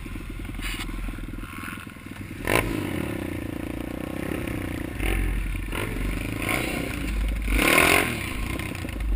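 Pit bike engine running and revving, with two sharp rises in revs: one about two and a half seconds in and a louder one near the end.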